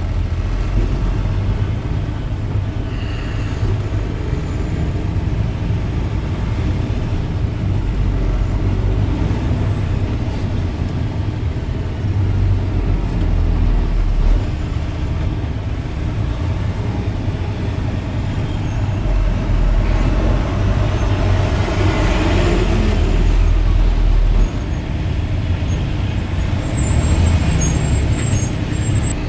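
Road and engine noise heard from inside a car moving in slow highway traffic, a steady low rumble. A louder swell of traffic noise builds about twenty seconds in and cuts off sharply a few seconds later.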